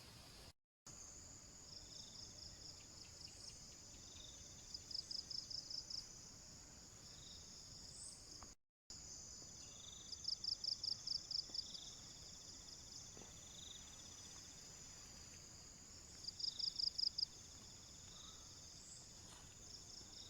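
Forest insects: a steady high-pitched drone, with three bursts of rapid high chirps about a second long each. The sound drops out completely twice, briefly.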